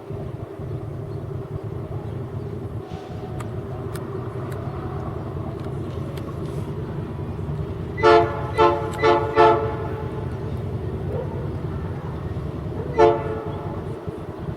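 Diesel locomotive running steadily, its air horn giving four short blasts about halfway through and one more short blast near the end.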